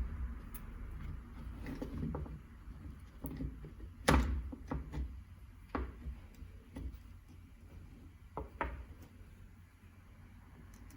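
Scattered knocks and clicks of the hammer drill's parts and hand tools being handled during repair, the loudest knock about four seconds in.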